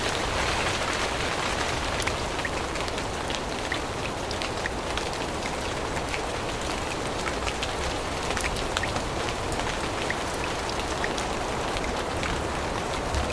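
Steady rain falling in a forest: an even hiss with many scattered close drops ticking.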